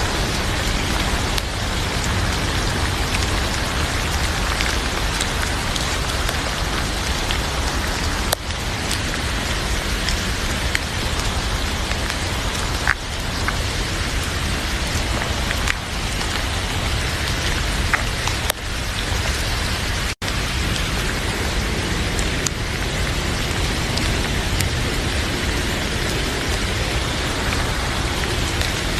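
Heavy rain falling steadily, with a few sharp pops from a crackling wood fire in a fireplace. The sound cuts out for an instant about twenty seconds in.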